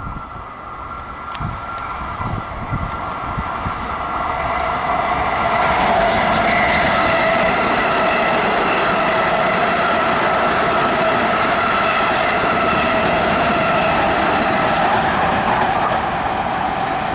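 Long Island Rail Road electric train approaching and running past, its noise building over the first few seconds and then staying loud and steady. A high whine of several steady tones lies over the rumble and the wheel noise.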